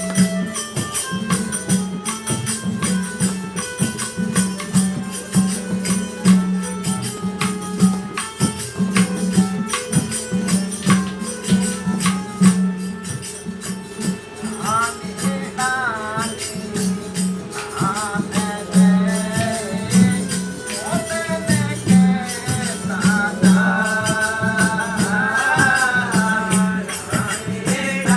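Devotional satsang music: a steady percussion beat with constant jingling over sustained melody notes, and a singing voice with wavering pitch coming in briefly about halfway through and again near the end.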